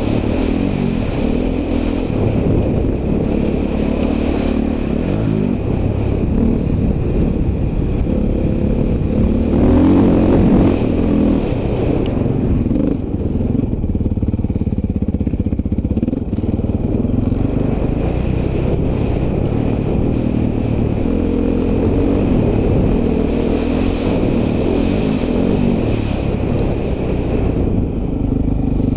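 Dirt bike engine being ridden off-road, revving up and dropping back again and again as the rider works the throttle. There is a louder burst of revs about ten seconds in.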